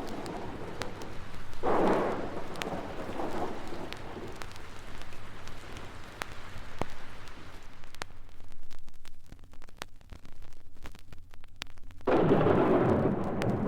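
Thunderstorm sound effect: thunder rolls over rain, with one surge about two seconds in and a louder clap breaking near the end. Vinyl surface clicks are audible throughout.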